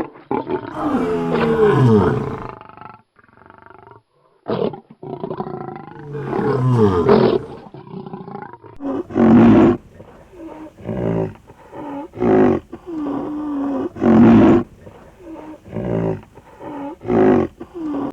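A cat yowling: long wavering calls in the first half, then shorter calls about once a second.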